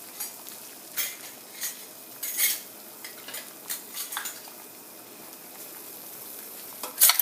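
Glass canning jars and metal lids clinking against a pot as they go into water at a rolling boil to be sterilized, over the steady hiss of the boiling water. There is a scattering of clinks, then a louder clatter near the end.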